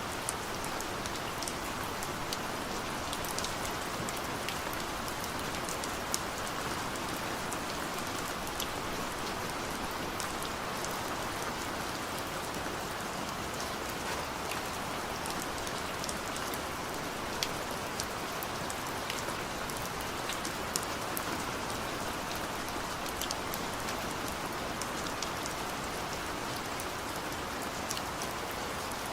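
Steady rain falling on a surface, an even hiss with many distinct drops ticking and pattering through it.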